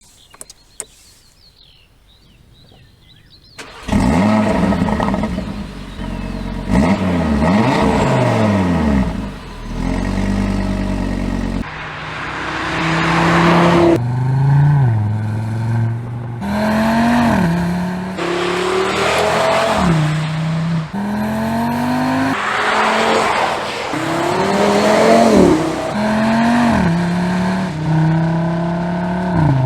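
Audi RS3's 2.5-litre turbocharged five-cylinder engine starting up about four seconds in after a few faint clicks, then revved up and down several times. From about twelve seconds it pulls hard through repeated upshifts, its pitch climbing and then dropping at each shift.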